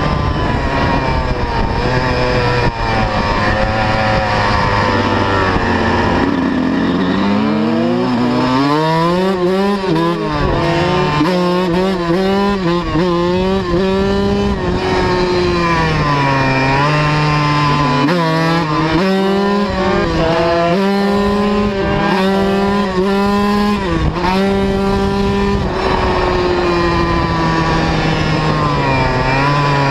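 125 cc two-stroke motocross bike engine being ridden, the pitch climbing hard after several seconds and then rising and falling again and again as the throttle is worked and gears change.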